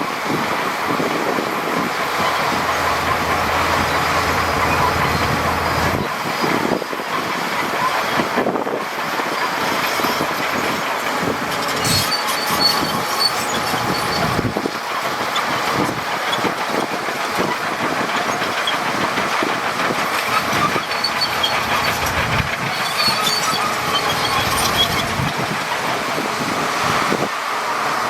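SHANTUI DH17 crawler bulldozer working, its diesel engine running steadily under the clatter of its steel tracks, with thin high metallic squeals now and then.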